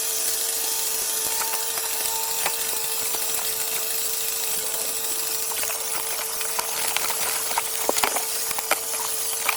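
A power tool's motor running steadily at one pitch, with scattered clicks and knocks in the second half.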